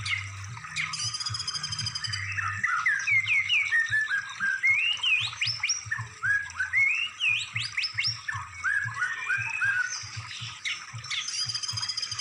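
Songbird song used as tutoring material for cage birds: a continuous string of whistled phrases, many built from quick rising sweeps repeated in series, with higher trills at the start and near the end. A faint low pulsing runs underneath.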